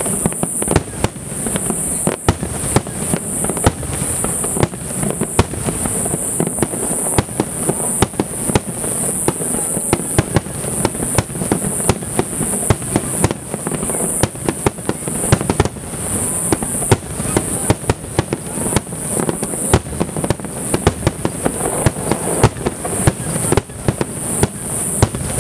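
Fireworks display: aerial shells bursting in rapid succession, a dense run of bangs and crackling several times a second, over a steady high-pitched hiss.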